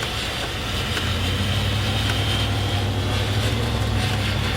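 Car engine running steadily, a low even drone with a steady hiss of noise over it.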